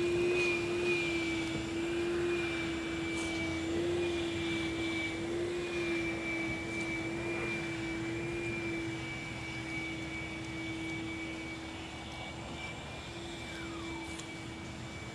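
Steady motor whine of car wash equipment, such as a vacuum or blower, with a pitch that wavers slightly, over a hiss of rushing air.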